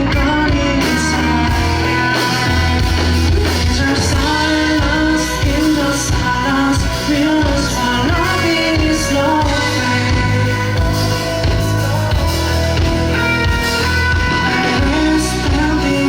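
A live rock band playing loud and steady, with guitars, bass and drums under a sung vocal line.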